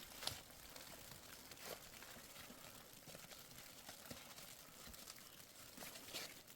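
Near silence with faint rustling and a few soft clicks, the sharpest just after the start.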